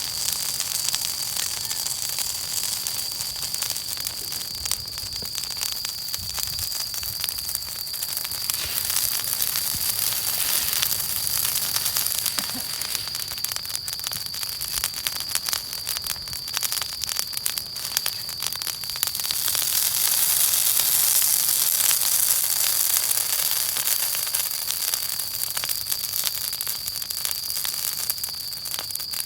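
Wood bonfire burning, with dense crackling and popping over a steady hiss and a thin, steady high-pitched tone. The hiss grows louder for a few seconds about two-thirds of the way through.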